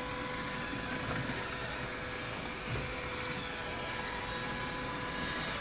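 Roomba robot vacuums running: a steady whirr of motor and brushes with a thin whine held on a few steady pitches, and a faint tick about a second in.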